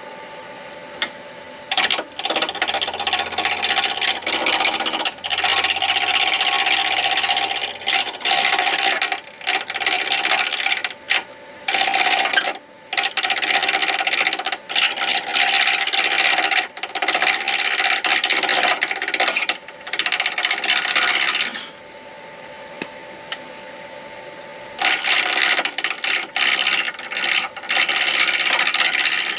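A turning tool cuts a spinning acrylic pen blank on a midi lathe in long, loud scraping passes broken by short pauses, over the lathe motor's steady hum. There is a longer pause about three quarters of the way through.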